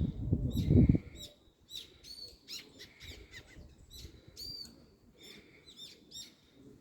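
Small birds chirping over and over, short high calls in quick runs. A loud low rumble covers the first second.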